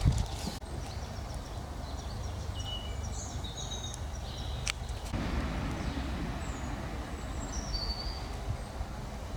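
Wild birds singing in short, high whistled phrases over a steady low rumble, with a single sharp click about halfway through.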